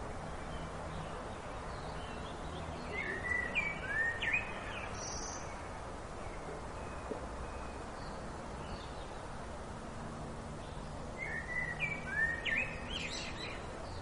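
A songbird singing two short phrases about eight seconds apart, each a quick run of sweeping whistled notes, over a steady background hiss.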